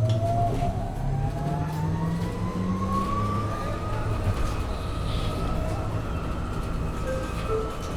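MAN Lion's City hybrid city bus heard from inside, pulling away and accelerating. Its hybrid drive gives a rising whine that climbs for about four seconds and then holds steady over the running noise of the bus.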